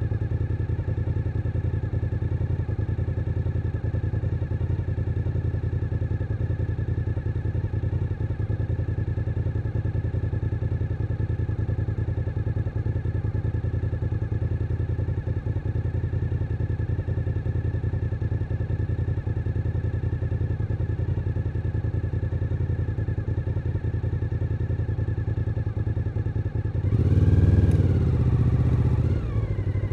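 Suzuki SV1000N's 90-degree V-twin engine running steadily on the move, then revving up louder near the end, its pitch rising and falling.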